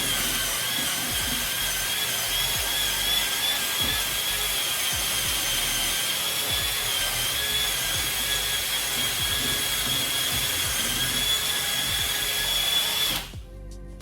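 Electric drill running steadily with a scouring pad chucked in it, buffing the shine off an aluminium floor panel so the paint will key. A steady high motor whine that cuts off suddenly near the end.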